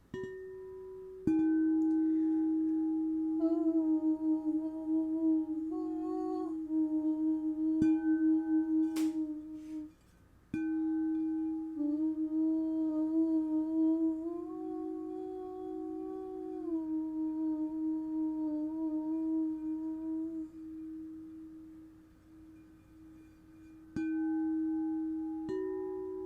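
Singing bowls struck several times and left ringing in a low, steady tone, with a voice humming (toning) over them, its pitch stepping up and down.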